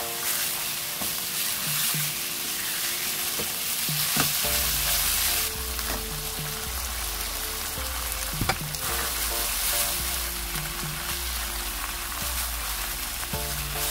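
Seasoned pork frying in a hot nonstick wok: a steady sizzle as it is stirred and tossed with a silicone spatula, with a couple of sharp clicks.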